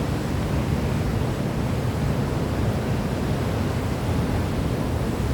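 Steady, even rushing noise, heaviest in the low end, with no changes, swells or distinct events.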